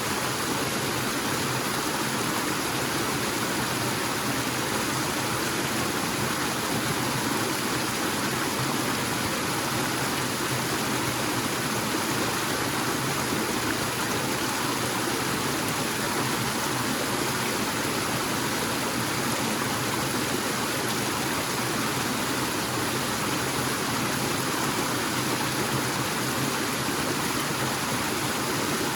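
Waterfall in a forest stream: water falling and rushing in a steady, unbroken roar.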